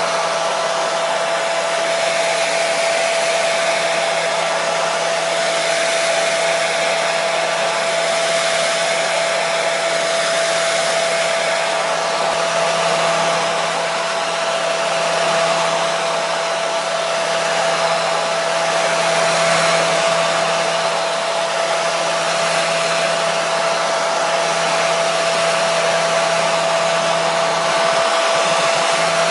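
Hair dryer running steadily: an even rush of blown air with a constant motor whine and a low hum underneath.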